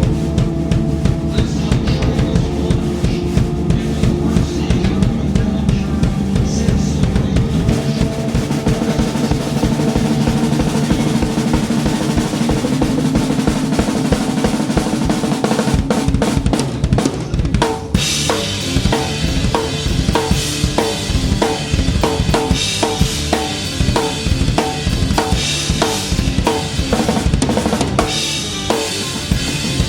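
Live band playing, with a drum kit loudest: kick and snare under sustained bass and guitar. About eighteen seconds in, cymbals come in over a steady, evenly spaced beat.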